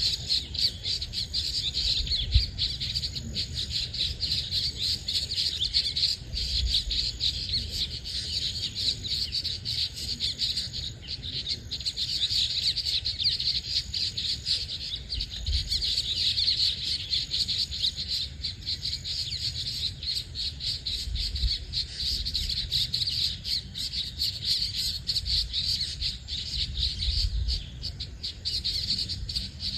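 Many birds chirping and calling at once in a dense, unbroken chorus, with a low rumble underneath.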